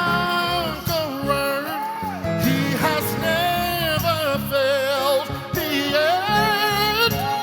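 Worship music: singers with vibrato over a band accompaniment.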